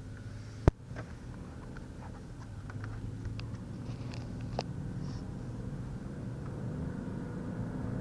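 Inside the cabin of a 2020 Ford Escape, its 1.5-litre EcoBoost engine and tyres running at a steady low hum that grows gradually louder as the SUV gathers speed. One sharp click just under a second in, with a few light ticks after.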